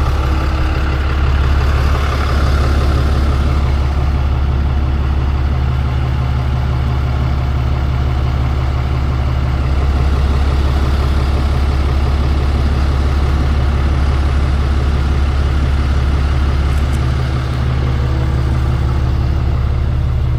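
Tow truck's engine idling steadily, a low even running note.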